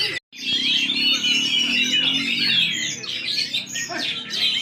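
Many caged songbirds singing at once in a dense, overlapping chorus of chirps, whistles and squawks. The sound drops out for a moment just after the start.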